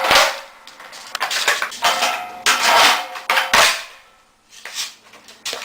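Skateboard clattering on a hard floor: a series of sharp knocks and clacks from the board's tail and wheels hitting down, some with a short metallic ring.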